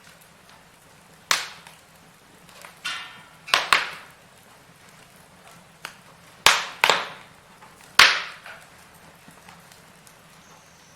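Firewood burning in a fireplace: scattered sharp crackles and pops, several in quick pairs, the loudest about six and a half and eight seconds in, with a brief whistling hiss about three seconds in.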